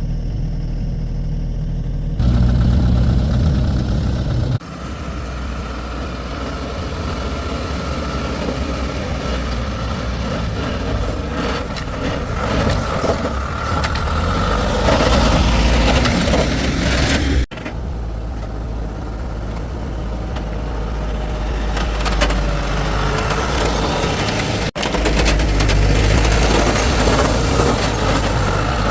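Heavy diesel engine of a truck or excavator running steadily, with the sound breaking off and resuming abruptly three times.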